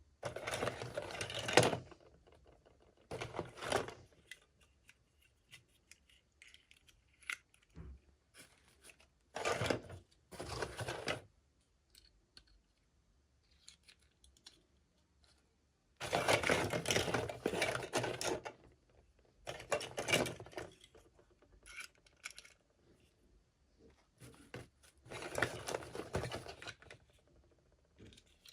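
Toy packaging being handled and torn open by hand: bursts of crinkling and tearing lasting a second or two each, about seven in all, with small clicks and taps between them.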